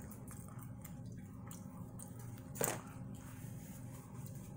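A person chewing food with faint wet mouth sounds and one short smack about two and a half seconds in, over a steady low hum.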